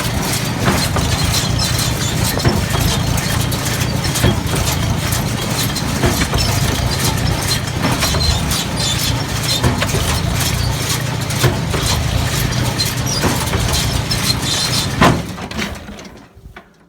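Case 133 hay baler running under power, a steady mechanical clatter with repeated knocks from its working parts. A loud clack comes about 15 seconds in, then the sound dies away near the end.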